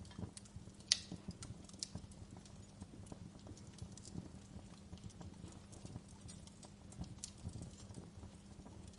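Wood fire crackling, with irregular sharp pops and snaps over a low rumble of burning; the loudest pop comes about a second in.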